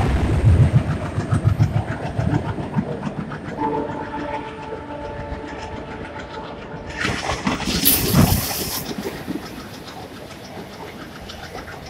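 Passenger coaches of an express train running through a station at speed, wheels clattering over the rail joints, the rumble fading as the rake goes by. Midway, a distant train horn sounds steadily for about three seconds, and a short rush of noise follows about seven seconds in.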